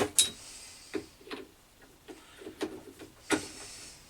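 Small metal tools and parts being handled on a workbench: a few separate light clicks and knocks.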